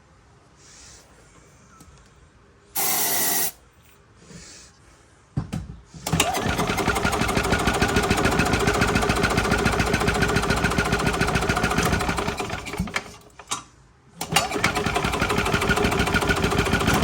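A short hiss of aerosol starting fluid sprayed into the Yamaha G9 golf cart's engine, then the engine being cranked over by its starter in two runs, about seven seconds and then three, with a brief pause between. It turns over without catching: the starting fluid is not getting it to fire.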